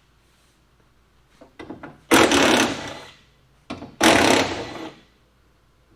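A power tool run in two bursts of about a second each, roughly two seconds apart, with a few small clicks before the first, as the hood bolts of a 1985 Chevy Suburban are backed out.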